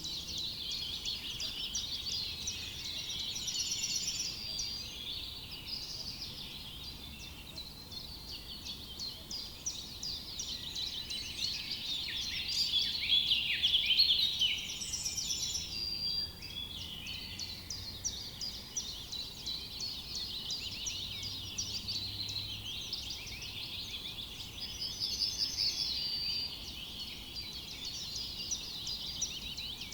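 Forest dawn-chorus-style birdsong: several small songbirds chirping and trilling over one another without pause, busiest about halfway through.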